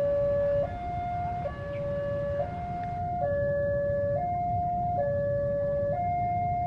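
Railway level-crossing warning alarm sounding, a steady two-tone signal that alternates between a lower and a higher pitch a little faster than once a second, over a steady low rumble.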